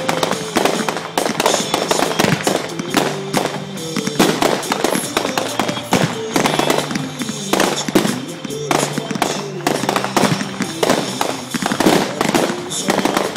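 Fireworks finale: a rapid, continuous barrage of shell bursts and crackling, with music playing underneath.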